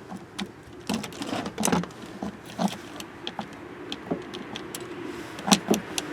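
Small plastic parts of a car door lock actuator being handled: irregular clicks and light knocks as clips and bushings are pried out and pressed into the replacement actuator, with a couple of sharper clicks near the end.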